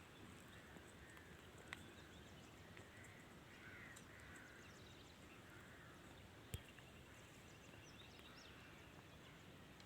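Faint outdoor ambience with distant birds calling in short chirps, and two sharp clicks, about two seconds in and again past the middle.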